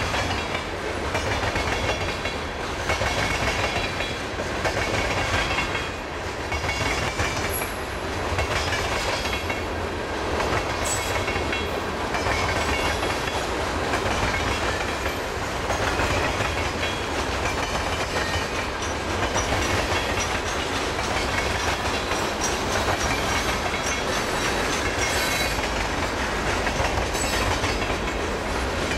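Freight train's cars rolling past: a steady rumble of covered hoppers, boxcars and tank cars on the rails, with repeated clicks from the wheels.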